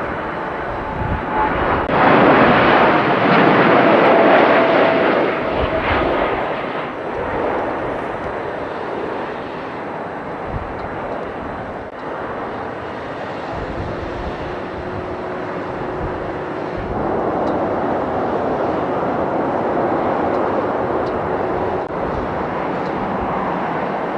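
Boeing 747-400 jet engines running, a dense rush with a faint steady whine, loudest a few seconds in and then evening out.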